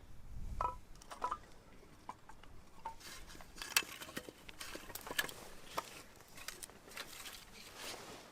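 Light clinks and clicks of metal camp cookware and utensils being handled. There are a couple of short ringing clinks in the first second or so, then a busier run of irregular clicks.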